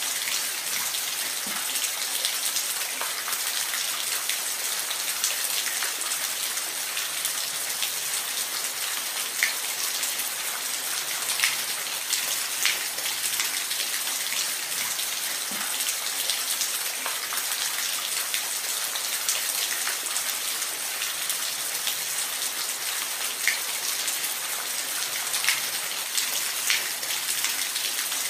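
Steady rain falling in a forest: an even hiss with individual drops ticking on leaves and surfaces now and then.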